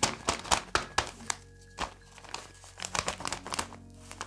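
Paper crinkling and rustling in quick, irregular crackles as a handmade paper blind bag and its paper contents are handled, over faint background music.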